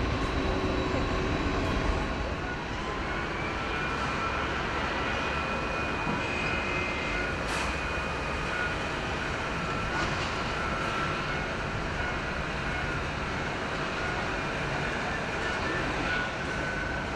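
Jet airliner engines running: a steady rumble with a high turbine whine that sets in about three seconds in.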